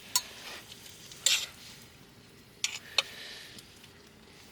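A utensil clinking against a pot of simmering oden as ingredients are moved around in the broth: four sharp clinks, two of them close together a little past halfway, over a faint hiss of the cooking pot.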